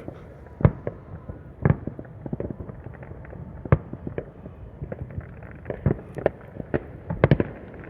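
Fireworks going off in an irregular string of booms and pops, with a few louder bangs standing out among many fainter ones.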